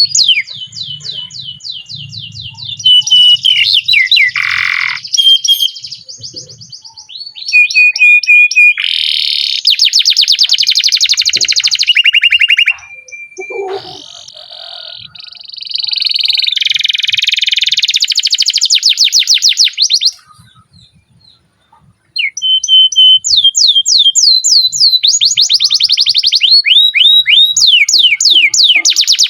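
Canary singing a long song of fast rolling trills and rapidly repeated downward-sweeping notes, with a short pause about two-thirds of the way through.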